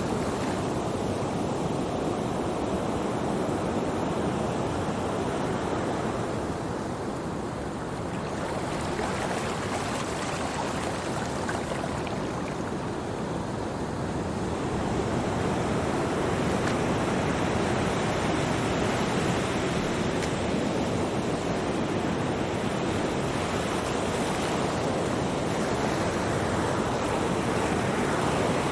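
Ocean surf: a steady rush of waves breaking and washing ashore, slowly swelling and easing over several seconds at a time.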